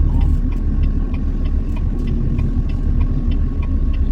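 Truck engine and road noise heard steadily from inside the cab, with a light, regular ticking about two or three times a second.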